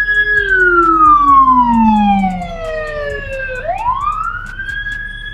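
Police car siren wailing: a long, slow fall in pitch, then a sweep back up about three and a half seconds in, holding high again.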